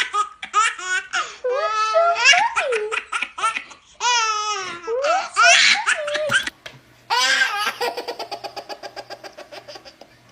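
Baby laughing hard in high, squealing bursts that swoop up and down in pitch. After a short break, a long chain of quick, evenly repeated laughs slowly fades away.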